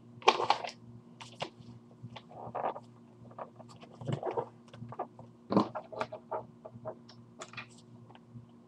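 Paper rustling and being creased by hand while folding an origami crane: irregular crinkles, scrapes and taps, with a faint steady low hum underneath.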